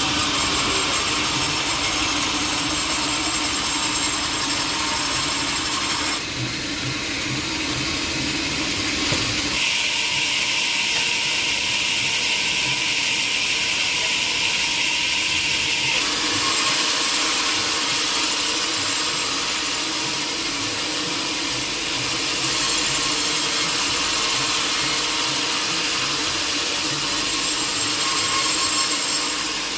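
Sawmill blade cutting through a teak log: a continuous loud hissing saw noise whose tone shifts several times as the cut goes on.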